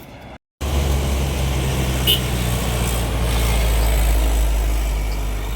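Heavy truck engine running loud, with a steady low drone, starting suddenly after a brief cut about half a second in.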